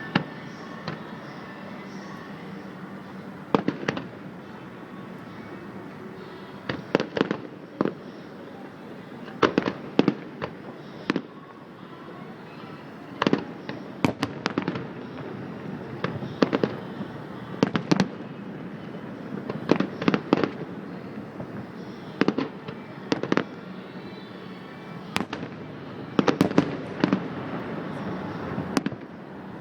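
Fireworks exploding overhead: an irregular series of sharp bangs, some single and some in rapid clusters of two to four, over a steady background hum.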